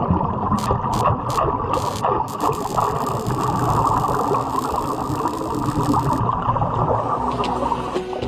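Wet underwater welding arc crackling steadily, with a few sharp clicks in the first two seconds.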